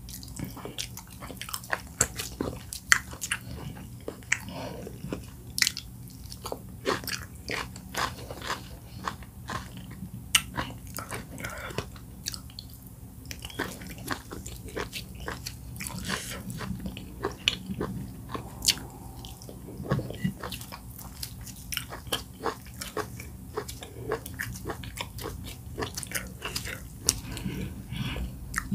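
Close-miked eating sounds: wet chewing, lip smacks and sharp mouth clicks several times a second as soft oatmeal fufu and bitterleaf soup are eaten by hand and fingers licked, over a steady low hum.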